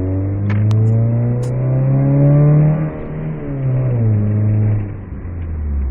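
1996 Mitsubishi Eclipse's engine revved twice. The pitch climbs for nearly three seconds and drops off, rises again briefly, then falls back toward idle near the end.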